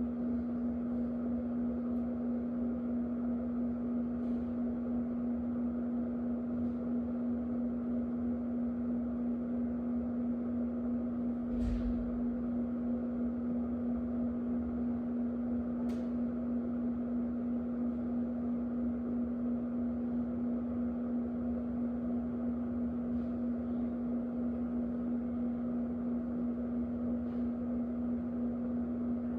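Electric fan running steadily: a constant motor hum under an even rush of moving air, with a couple of faint clicks partway through.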